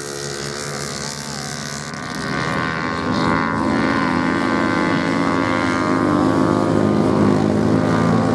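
Motorcycle engines running steadily at high revs, getting louder about two seconds in and staying loud.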